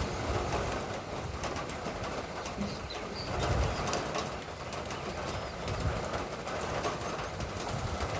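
Light rain falling steadily, many drops ticking and pattering, with a few faint short bird chirps.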